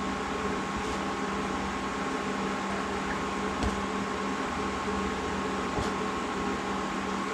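A steady appliance hum, with a faint whine over an even hiss, and a couple of light clicks partway through.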